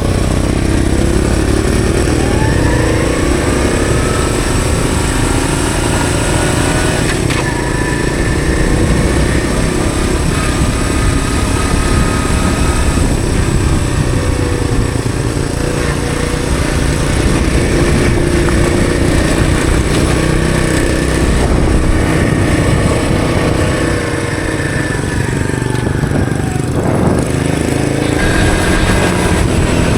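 Honda CT110 postie bike's small single-cylinder four-stroke engine running under way, its pitch rising and falling with the throttle and gear changes, over a steady rush of noise.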